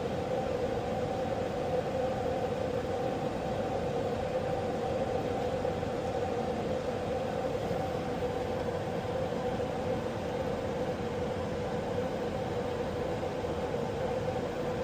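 Pratt & Whitney aircraft engine running steadily on a maintenance ground run: an even rushing noise with two held steady tones that do not change.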